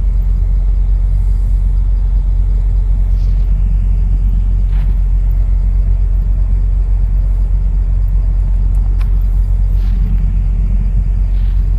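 Semi-truck diesel engine idling, a steady low rumble with a few faint ticks.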